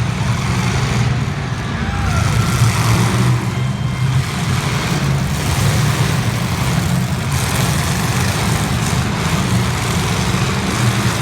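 Demolition derby cars' engines running in a loud, continuous low drone.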